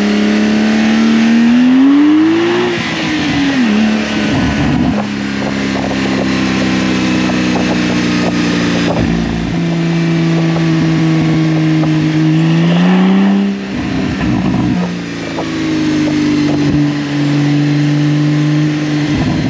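Porsche 992 911's twin-turbo flat-six running through an aftermarket valved titanium exhaust as the car is driven. The revs climb over the first few seconds and drop sharply, hold steady for a long stretch, climb again about two-thirds through and break off, then settle steady again.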